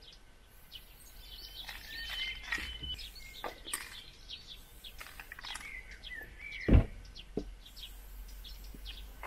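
Birds chirping and calling in short whistled notes, some gliding in pitch, with a single loud thump about seven seconds in.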